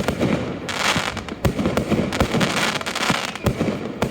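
Fireworks display: aerial shells bursting in a steady string of sharp bangs, several a second apart, over continuous crackling and hissing.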